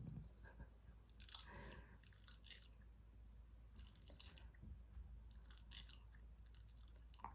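Shiba Inu faintly chewing its food, in about three short clusters of crisp clicks and crunches.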